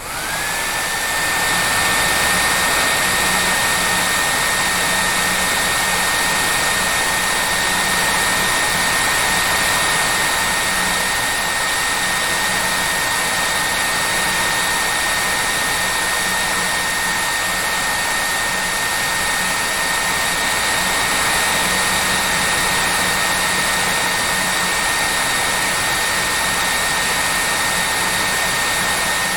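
Hair dryer running with a steady rushing blow and a steady high motor whine. In the first second its whine rises as the motor spins up to speed.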